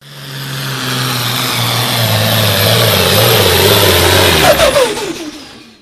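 Hot farm pulling tractor's engine running loud at full throttle, then winding down with a falling pitch about four and a half seconds in.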